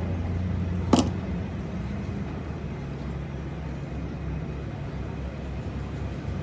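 Rewound three-phase induction motor running on test with a steady low electrical hum. A single sharp click sounds about a second in.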